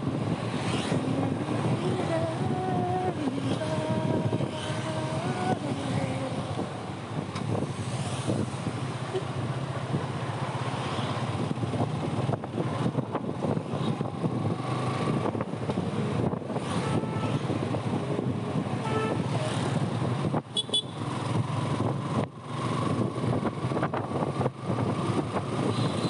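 Motorcycle ride through city traffic: engine and wind noise run steadily, with the changing engine tones of other vehicles around.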